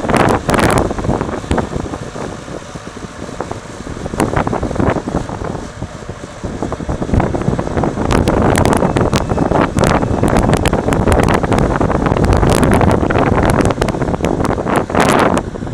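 Marshall 802 tractor's diesel engine working under load while pulling a three-furrow reversible plough, with wind buffeting the microphone. It grows louder about eight seconds in.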